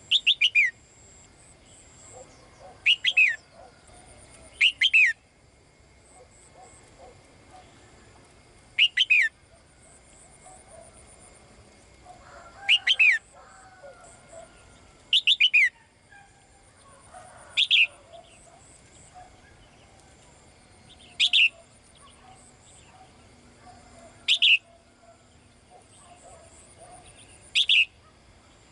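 A female caged songbird calling to a male. She gives short, high calls that sweep quickly downward, sometimes in pairs, repeated every two to four seconds, about ten times.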